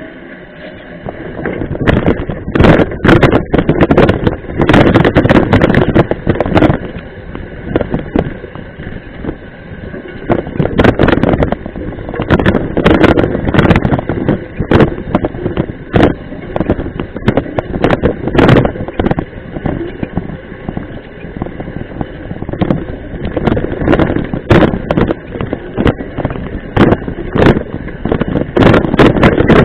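Mountain bike riding a rough dirt trail: a steady rumble of wind and tyres on the microphone, broken by frequent sharp knocks and rattles as the bike goes over bumps.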